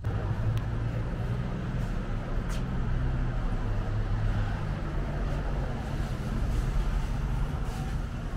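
A vehicle engine running steadily at idle, an even low hum.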